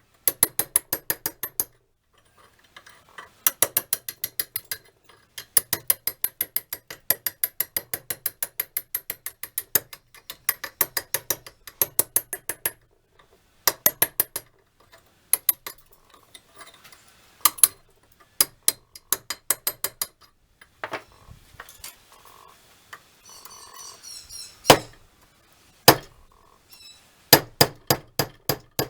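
Rapid metallic clicking, several clicks a second in runs of a second or two, like a ratchet pawl being worked back and forth. Later come a few single sharp metal clinks.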